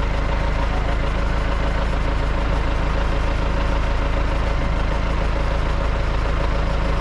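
Trident 404 tractor engine running at a steady speed with the PTO engaged, turning the backhoe's hydraulic pump while the stabiliser legs are lowered.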